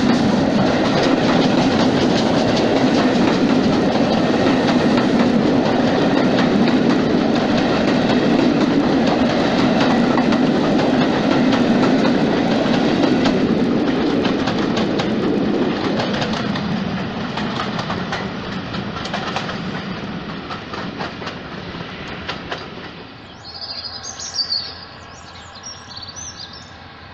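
Passenger coaches of a steam train hauled by a GWR 94xx pannier tank rolling past close by, wheels clicking over the rail joints. The sound fades away over the second half as the train recedes. Near the end a bird chirps briefly.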